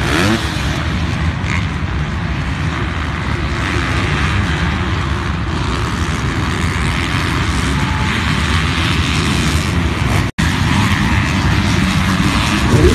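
Many motocross dirt-bike engines running together as a steady drone, with the sound cutting out for an instant about ten seconds in.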